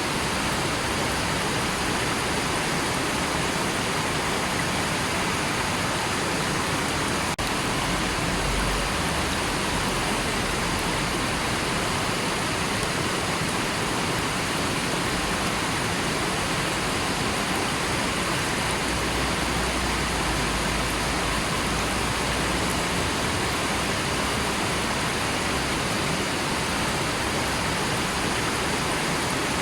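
River water flowing steadily, an even wash of noise with no breaks.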